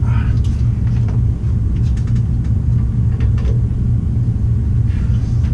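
A steady low hum, with a few light clicks and taps as copper pipe and fittings are handled and moved into place.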